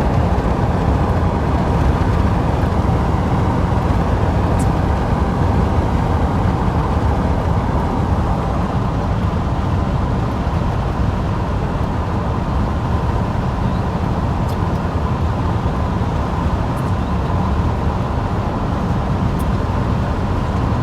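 A ute's engine and road noise, a steady low drone as it tows a heavily loaded trailer carrying roughly two tonnes or more of sand.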